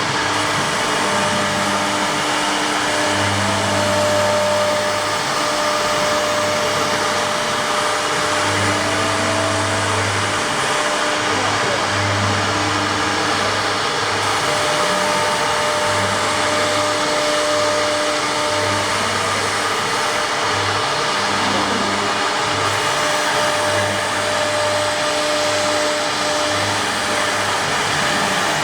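Air-cooled spindle of a large CNC wood router running at speed and cutting, a steady loud rushing whine, with a low hum that comes and goes every second or two.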